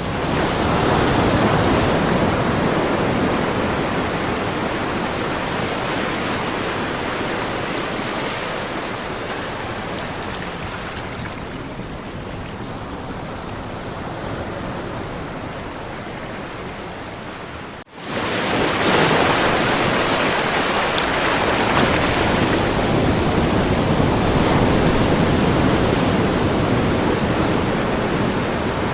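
Ocean surf: a continuous rush of waves breaking and washing in, swelling at the start and slowly easing off. The sound cuts out for a moment about eighteen seconds in, then the surf comes back full.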